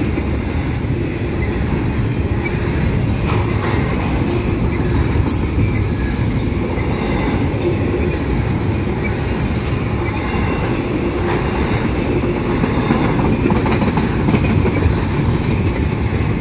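Double-stack intermodal freight cars rolling past: a steady, loud rumble of steel wheels on rail, with a few sharp clicks a few seconds in.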